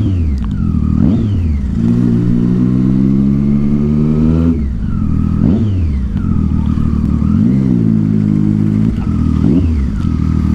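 Triumph Street Triple 675's inline-three engine through a Yoshimura aftermarket exhaust, revved hard in repeated sharp throttle blips. The pitch shoots up and falls back about six times, with steadier, slowly climbing running in between.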